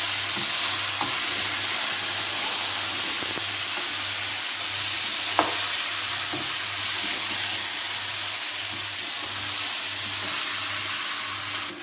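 Curry goat frying in hot oil in a pot while being stirred with a spatula: a steady, loud sizzle, with one light knock about halfway through. The sizzle cuts off suddenly near the end.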